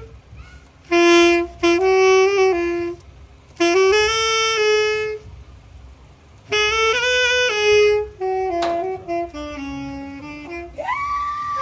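Saxophone playing a slow melody in three short phrases with pauses between them; near the end a higher note slides up and holds.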